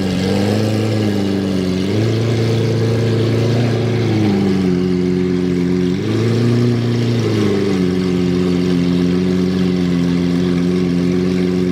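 Lamborghini Aventador SV's V12 engine idling steadily. Twice the revs step up, are held for a couple of seconds and drop back.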